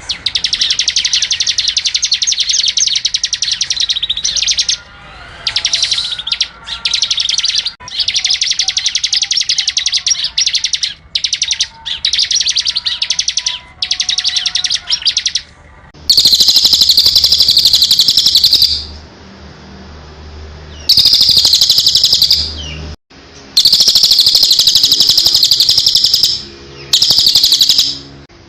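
A small songbird singing long, fast, high twittering phrases of rapid notes, broken by short pauses; the phrases become louder about halfway through.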